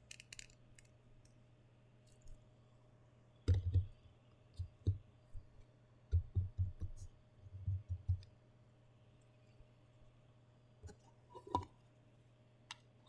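Hands wrestling with a boxed anime figure's stiff packaging: clusters of short, dull knocks, then a few sharp clicks near the end, over a faint steady hum.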